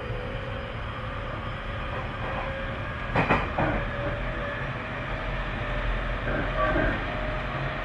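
Tobu 30000 series electric train running along the line, heard from inside a passenger car: a steady rumble with a faint humming tone. A quick double clack of the wheels over rail joints comes about three seconds in, the loudest moment, and softer clacks follow near six and a half seconds.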